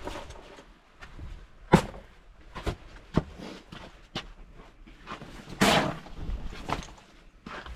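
Snow shovel at work in deep snow: several separate sharp knocks of the blade, then a longer, louder scraping rush a little past halfway.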